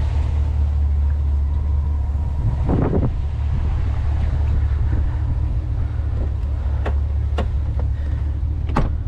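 Steady low rumble of an idling vehicle engine, with a few sharp clicks in the second half.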